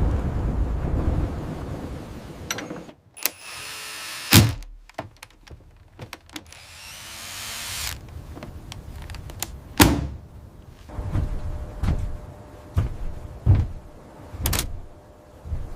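Heavy machinery work: a low rumble that fades over the first couple of seconds, then a run of separate heavy thunks and knocks. The loudest come about four seconds in and again near ten seconds, with a short hiss in between.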